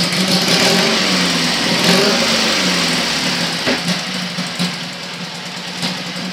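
Dnepr K-650 motorcycle's 650 cc flat-twin engine running through R75-style exhaust pipes. It is revved up for the first three seconds or so, then settles back to a lower, steadier run.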